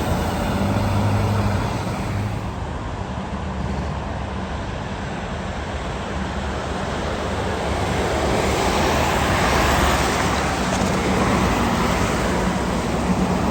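Road traffic going by: the low, steady drone of a large engine under tyre and road noise, which swells about two-thirds of the way through as a vehicle passes.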